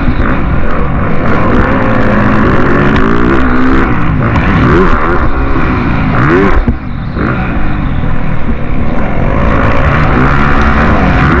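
Motocross bike engines revving up and down, their pitch rising and falling repeatedly, with a brief drop about two-thirds of the way through.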